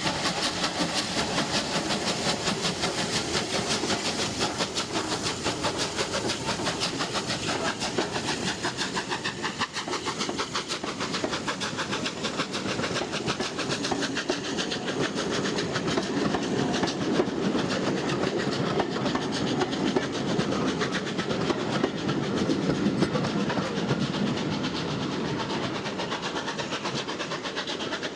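Steam-hauled train running along the line, with a fast, even run of beats that grows louder for a stretch in the second half.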